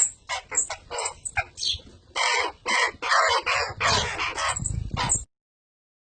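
Baby birds begging: a run of harsh, raspy squawks in quick succession, cutting off suddenly about five seconds in.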